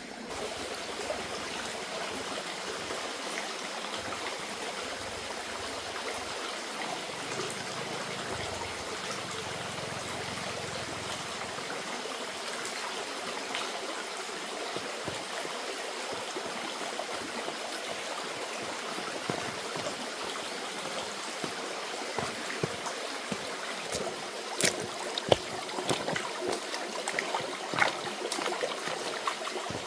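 Running water flowing steadily, like a mountain stream. A few sharp knocks or clacks come in the last ten seconds.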